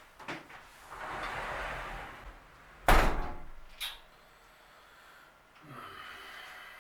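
A cupboard or wardrobe door sliding, then shut with a single loud bang about three seconds in, followed by a lighter click.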